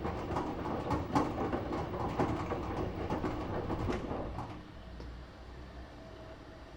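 Samsung WF9904RWE direct-drive front-loading washing machine tumbling a load in its main wash, with irregular knocks and sloshing of wet laundry and water in the drum. About four seconds in, it goes quieter as the tumbling eases off.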